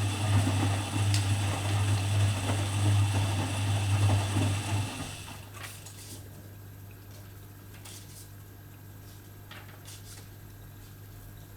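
Privileg Dynamic 4612 washing machine winding down after its drum motor cuts out: the drum noise and hum fade over about five seconds, then only a faint steady hum remains with a few soft clicks.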